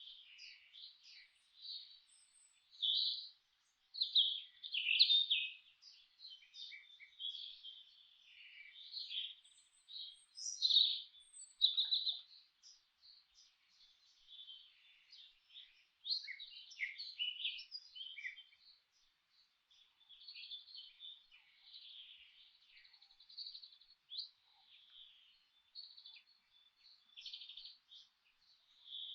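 Several songbirds singing and chirping over one another in a quick, busy chorus of short high notes and trills, loudest about 3 to 5 seconds in and again around 10 to 12 seconds.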